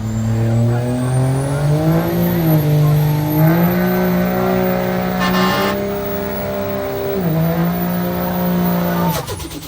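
A truck engine revs up over about two seconds and is held at high revs, with a thin high whistle climbing above it. It dips briefly about seven seconds in and lets off near the end.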